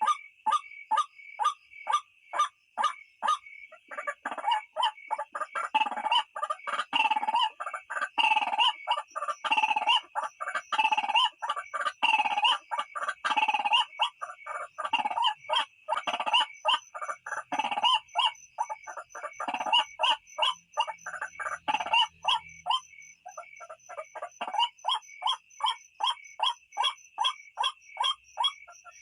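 White-breasted waterhen (ruak-ruak) calling: a fast series of repeated notes, about three to four a second, growing fuller and overlapping from about four seconds in until about twenty-two seconds, then thinning back to single notes. A steady high-pitched drone runs underneath.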